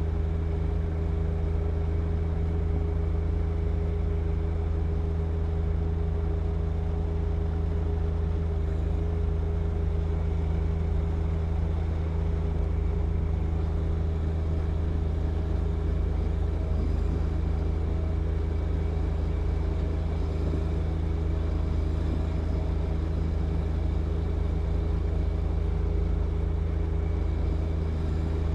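John Deere 1025R sub-compact tractor's three-cylinder diesel engine running steadily under load while clearing wet snow, a constant low hum that does not change.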